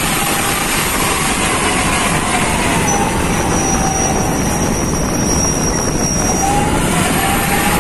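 A heavy vehicle running steadily and loudly, with faint wavering whines and a thin high whine in the middle.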